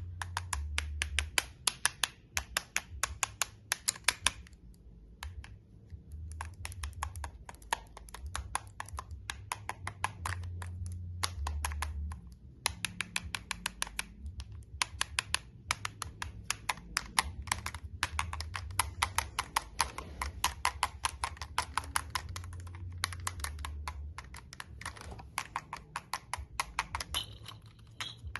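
Sensory toy being clicked in rapid runs of sharp clicks, several a second. The runs stop briefly a few times.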